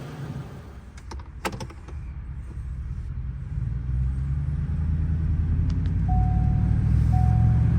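Ford F-150's 5.0L Coyote V8 running through an aftermarket stainless cat-back exhaust with a straight-through muffler and the factory resonator kept. The exhaust drone builds steadily louder from about two seconds in as the truck pulls away. A few sharp clicks come early on, and a short chime repeats about once a second near the end.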